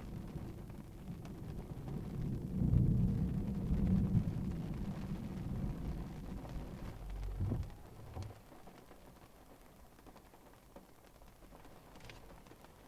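A low, rolling rumble of thunder that builds about two seconds in, is loudest a second or two later, and dies away by about eight seconds.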